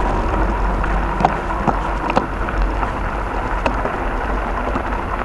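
Strong wind buffeting the microphone as a steady low rumble, with scattered sharp clicks and ticks.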